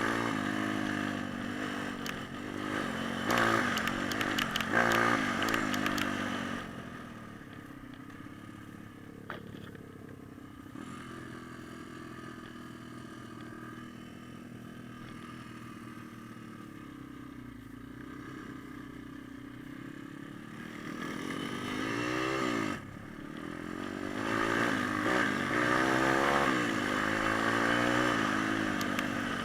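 Small four-stroke single-cylinder pit bike engine being ridden, revving up and down for the first few seconds. It then runs quietly at low revs for about fifteen seconds and revs hard again, with rising sweeps of pitch, near the end.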